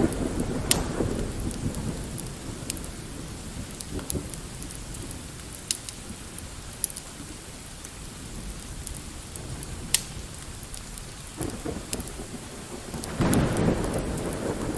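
Light rain with distant rolling thunder: the rumble fades away in the first few seconds and builds again near the end. A few sharp isolated pops stand out over the rain, the loudest about ten seconds in.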